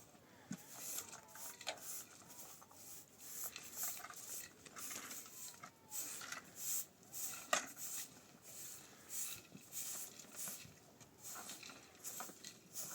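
Irregular short hissing strokes, one or two a second, like hand work on a surface, with a sharp click about seven and a half seconds in.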